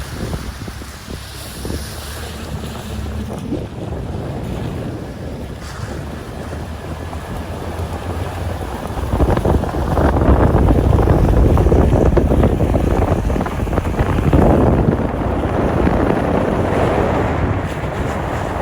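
Heavy rain and wind, with gusts buffeting the microphone; the noise swells and grows louder about nine seconds in.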